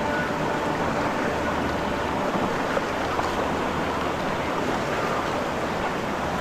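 Steady rush of river water from rapids around a raft.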